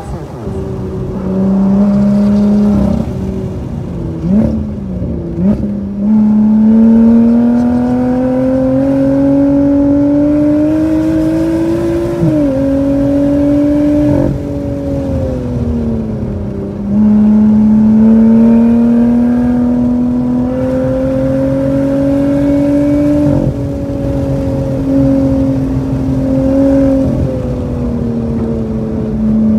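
Car engine heard from inside the cabin on a fast track lap. The note falls as the car slows from about 122 mph, with a few quick revs in the first several seconds. It then climbs steadily under acceleration, with sudden pitch drops as at gear changes, and falls again under braking midway.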